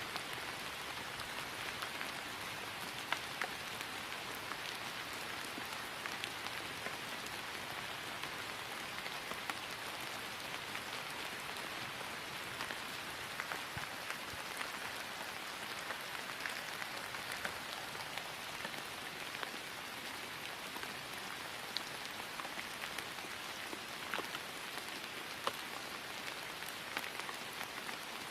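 Steady rain falling on grass: an even hiss with scattered close drops ticking through it.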